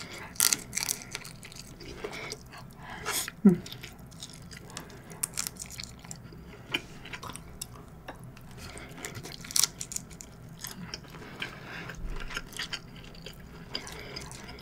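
Close-miked chewing of king shrimp nigiri sushi: irregular soft wet clicks and smacks of the mouth. A short voiced sound, falling in pitch, comes about three and a half seconds in.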